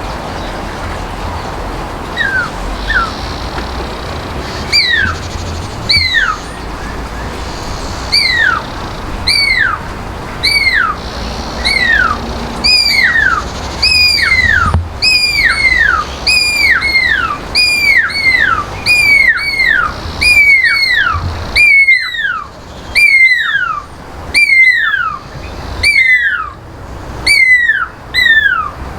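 Pearl-spotted owlet calling: a long series of clear, downslurred whistles. The notes start sparse and build, coming faster and louder until there is more than one a second.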